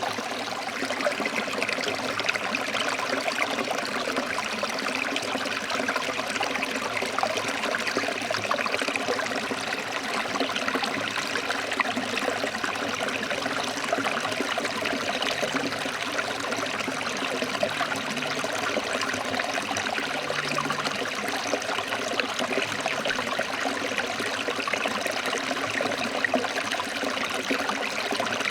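Forest stream flowing over rocks: a steady, even rush and splash of water.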